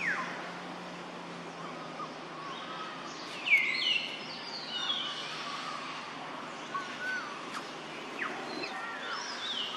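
Wild birds chirping and calling over a steady outdoor hiss, with a louder arched call about three and a half seconds in. A faint low drone fades out near the end.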